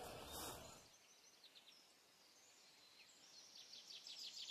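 Faint birdsong in quiet outdoor surroundings: short, rapid trills of high chirps, with the strongest series near the end. A low rumble stops about a second in.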